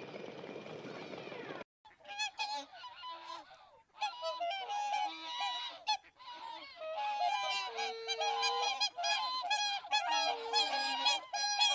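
Flock of geese honking, many short calls overlapping in quick succession. They begin abruptly about two seconds in, after a brief hiss.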